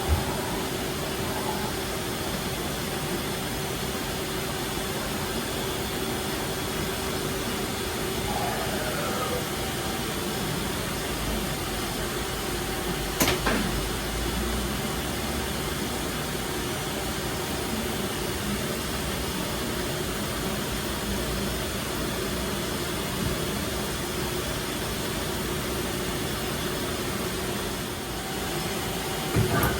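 Doosan Puma 2100Y CNC lathe running under power: a steady mechanical hum with a constant whine, a short falling whine about eight seconds in, and a single sharp click about halfway through.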